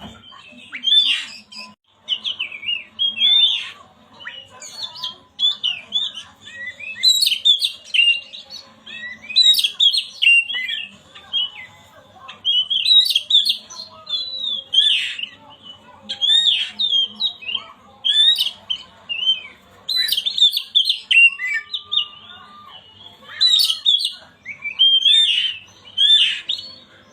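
Oriental magpie-robin (kacer) singing in short phrases of rapid, varied chirps and whistles, one phrase after another with brief pauses between them.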